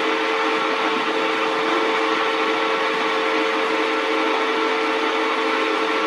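Metal lathe running steadily, a constant whine over an even hiss.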